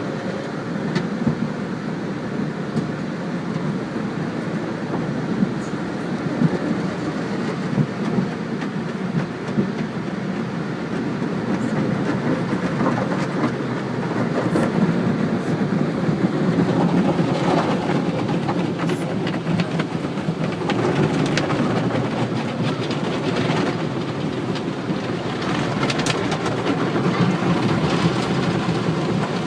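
Automatic car wash: a steady rumble of water spray and spinning brushes on the car's body, with scattered clicks and knocks, getting a little louder about halfway through.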